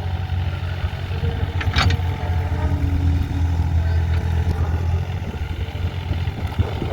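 JCB machine's diesel engine running steadily with a low hum, with one sharp knock about two seconds in.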